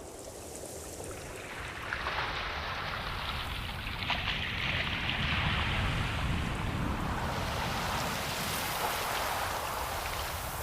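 Ocean waves surging in and washing over the shore: a rush of noise that swells up about two seconds in, is strongest around the middle and slowly eases off.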